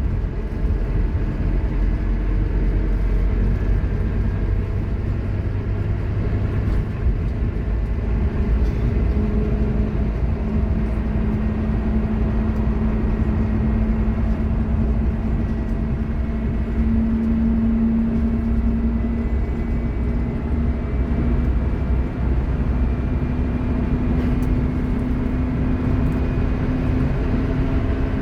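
Scania K230UB Omnilink bus driving under way, its diesel engine running with a loud whine from the ZF Ecomat automatic gearbox. The whine rises in pitch as the bus picks up speed, from about a third of the way in, and again near the end.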